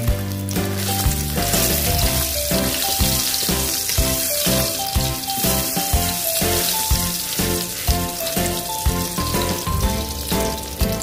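Food sizzling as it fries in hot oil in a pan, with background music playing over it: held notes, a bass line and a steady beat.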